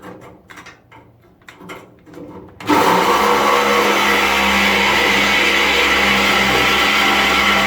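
A few light clicks and knocks of handling, then about two and a half seconds in a reciprocating saw starts abruptly and runs steadily, cutting through the car's body steel.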